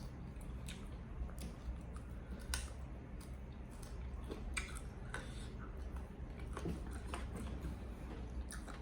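A person chewing food close to the microphone, with scattered short wet clicks and smacks of the mouth.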